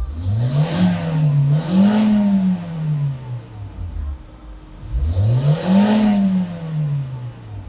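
Volkswagen Vento's 1.6-litre four-cylinder petrol engine being revved while parked: a quick double throttle blip, then another rev about five seconds in, each time the revs climbing fast and dropping straight back to idle. The reviewer takes this quick rise and return as the sign of an engine in good condition.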